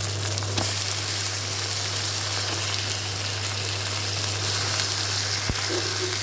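Raw chicken pieces sizzling steadily in hot oil with fried onions in the pan, with one short knock near the end.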